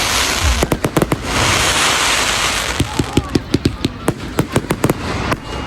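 Fireworks going off: a loud crackling hiss with a few sharp pops, then a fast run of sharp crackling pops, several a second, that stops shortly before the end.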